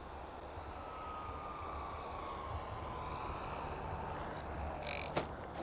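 Faint whine of a foam RC model plane's electric motor, falling slowly in pitch as the plane throttles back, over wind noise on the microphone. A sharp click about five seconds in.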